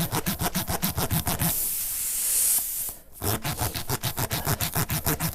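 A tyre-repair reamer rasped rapidly in and out of a puncture in a car tyre, about nine strokes a second, to enlarge the hole for a sticky-straw plug. The rasping pauses for a second of hiss, air escaping from the opened hole, then starts again.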